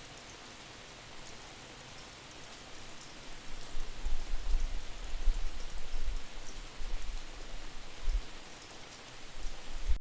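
Rain falling: a steady hiss with scattered drop ticks. From about three and a half seconds in, gusts of wind buffet the microphone with an uneven, distorted low rumble that is louder than the rain.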